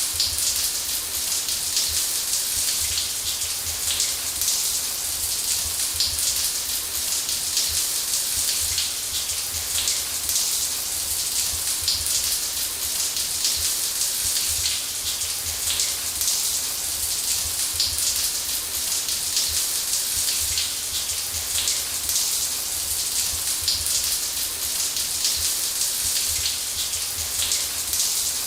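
Shower water spraying steadily onto a hard surface: a continuous hiss of dense fine patter with a low rumble underneath.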